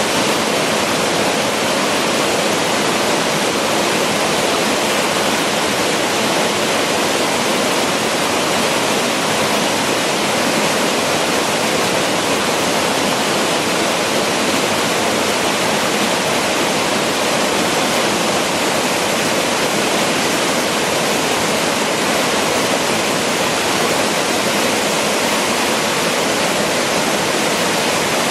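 Oshiraji Falls waterfall pouring steadily: a loud, even rush of falling water that never changes.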